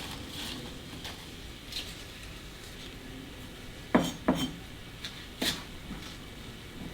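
Kitchenware clinking: a few sharp knocks of dishes or cutlery, the loudest about four seconds in, with two more close behind it and another about a second later.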